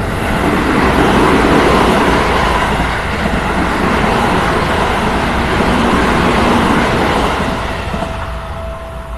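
Seibu electric commuter train passing over a level crossing: a loud, steady rush of wheels on rail for about eight seconds, fading near the end. As the train noise dies away, the crossing's warning bell rings through again with a steady tone.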